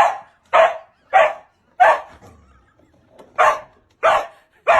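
A dog barking seven times in short barks: four in quick succession, a pause of over a second, then three more.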